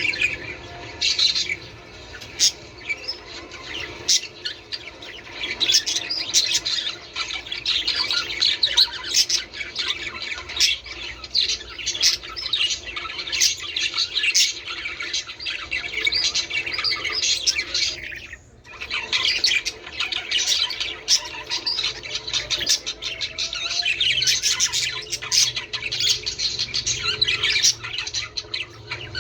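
Budgerigars chattering: many rapid, overlapping chirps, warbles and squawks, with a brief lull about two-thirds of the way through.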